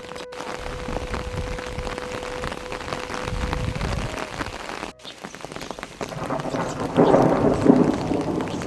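Steady rain falling, a dense patter of drops, with a low rumble of thunder about three to four seconds in and a heavier, louder spell of rain near the end.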